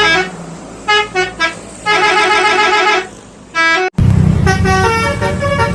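Telolet basuri musical bus horn playing a tune of held notes that step up and down in pitch, in several short phrases with brief gaps. From about two-thirds of the way in, an engine rumbles underneath.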